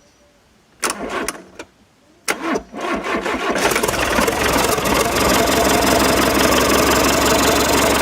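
Tata 407 SP 3.0-litre diesel engine being cranked in two short bursts, catching on the second about three seconds in and settling into a steady idle.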